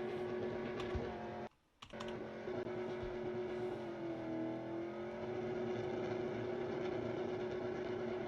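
Truck engine held at high revs during a burnout, running steadily. The revs dip briefly and recover near the middle, and the sound cuts out for a moment about a second and a half in.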